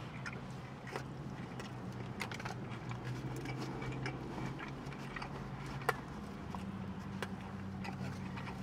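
A person chewing a mouthful of sub sandwich, with small wet clicks and crackles of the mouth and a sharper click about six seconds in, over a steady low hum.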